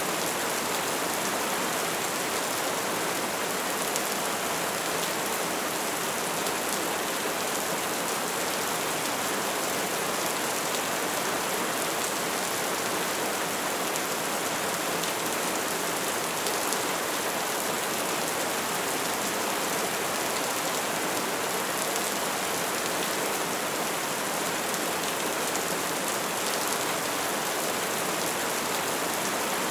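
Soft rain falling steadily, an even hiss of many small drops with faint fine pattering.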